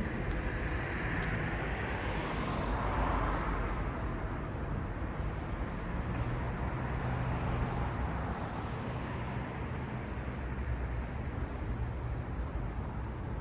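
City street traffic: a steady rumble of road vehicles, with one passing closer in the first few seconds.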